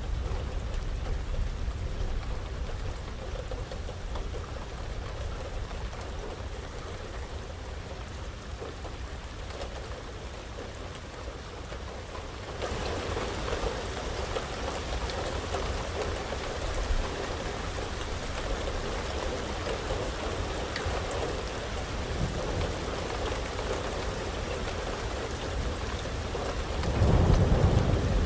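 Heavy rain falling steadily in a thunderstorm, growing suddenly louder about halfway through, with a low rumble of thunder swelling near the end.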